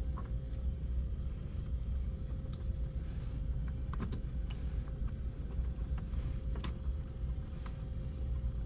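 Scattered short plastic clicks of wire-harness connectors being pushed onto a washer's main control board, over a steady low rumble.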